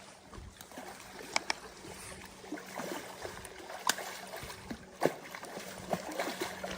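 Creek water running steadily, with a few sharp clicks or knocks, about four, spread through it.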